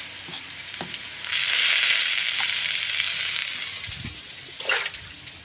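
Cut radish, eggplant and potato frying in oil in a kadai, the sizzle swelling loud about a second in and easing off toward the end, with light clicks of stirring.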